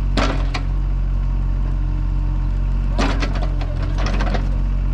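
An engine idling steadily with a low hum, with two short spells of sharp clattering clicks, one just after the start and a longer one from about three seconds in.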